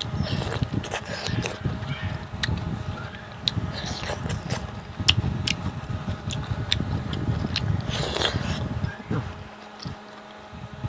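Close-up chewing of pork and bamboo shoots cooked with rice powder: steady mouth and chewing sounds with scattered small clicks, and a short noisy breath or slurp about eight seconds in.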